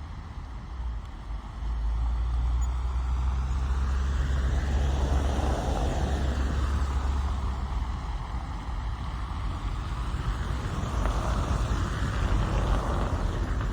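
Rainy traffic ambience heard from a car: a steady low engine rumble that grows louder about two seconds in, under an even hiss, with the hiss of passing vehicles swelling and fading twice.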